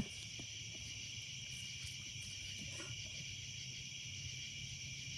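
Steady chorus of night-singing crickets, a continuous high-pitched trill with no breaks.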